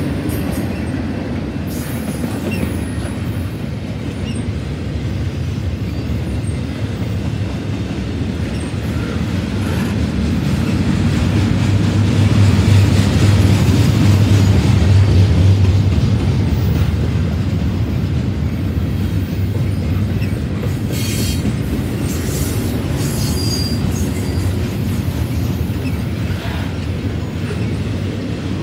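Loaded double-stack intermodal freight train rolling past: a steady rumble of steel wheels on rail that swells to its loudest about halfway through, then eases a little.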